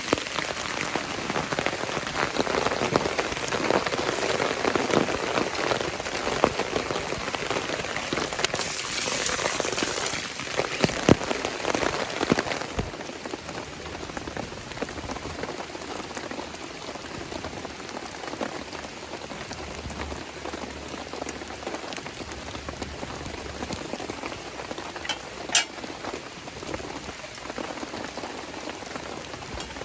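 Steady rain pattering, with many small drop ticks; it is heavier for the first dozen seconds, then softer.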